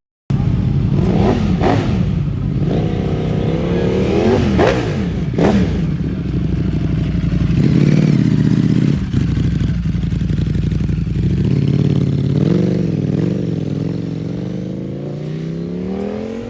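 Road vehicle engine running with several quick throttle blips in the first half, then a steadier stretch and a long rise in engine pitch near the end as it accelerates.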